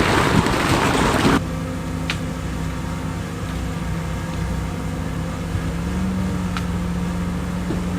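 A loud rushing, rattling noise stops abruptly about a second and a half in, leaving a heavy diesel engine running steadily; its pitch rises slightly about six seconds in.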